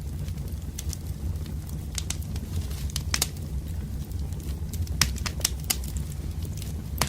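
Wood fire burning: a steady low rumble with irregular sharp crackles and pops from the burning logs, a few of them louder, about five seconds in and near the end.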